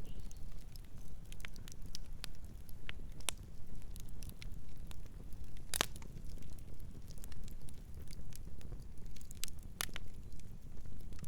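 Campfire burning: irregular crackles and sharp pops of burning wood over a steady low rumble. Two pops stand out, about six seconds in and again near ten seconds.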